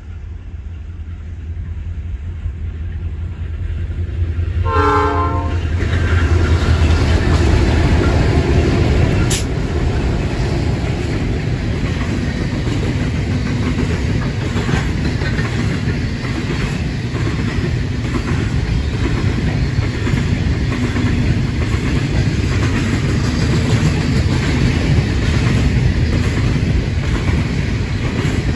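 Grain train hauled by four diesel-electric locomotives (XR, X and G classes) approaching with a growing low engine rumble, sounding one short horn blast about five seconds in. The locomotives then pass, and a long rake of loaded grain hopper wagons rolls by with steady rumbling and clickety-clack of wheels over the rail joints.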